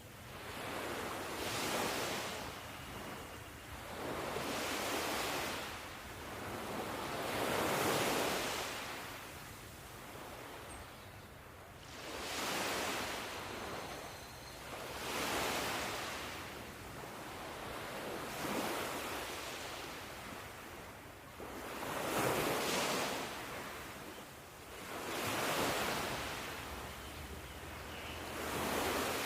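Ocean surf: waves break and wash in one after another, each rising and fading away, about one every three seconds.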